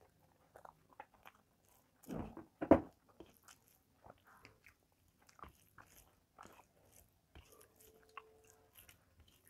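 Close-up chewing and mouth sounds of someone eating rice and vegetables by hand: soft wet clicks and smacks throughout, with two louder muffled bumps a little over two seconds in and a brief steady hum about eight seconds in.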